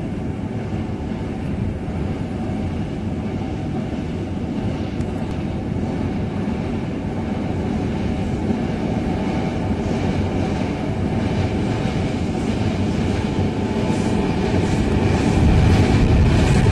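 Electric-hauled passenger train crossing a steel girder rail bridge: a steady low rumble that grows louder as the train approaches, with faint rapid clicks of the wheels coming in during the second half.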